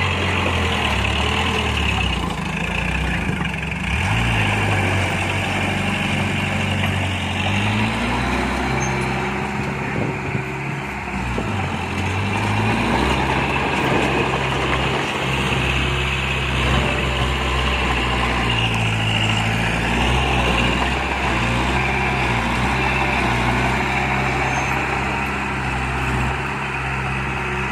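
Diesel engine of earthmoving machinery running without a break, its pitch rising and falling as the engine works under changing load.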